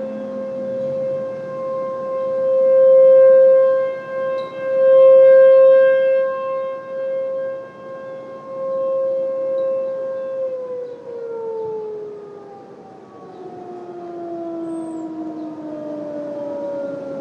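Outdoor warning sirens, the T-128 loudest, sounding a steady alert tone that swells and fades in loudness as the siren turns. About ten seconds in they wind down together, several falling tones at different pitches, with wind noise underneath.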